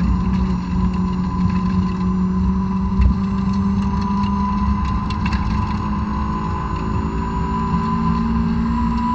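Honda S2000's 2.2-litre four-cylinder engine, heard from inside the cabin, pulling at high revs under throttle on stock exhaust. Its pitch climbs slightly near the end as the car gathers speed. A steady high whine runs above it, with road and wind noise.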